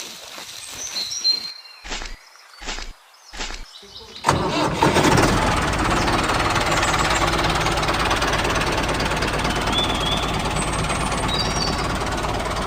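Tractor engine turning over in four short bursts, then starting about four seconds in and running steadily.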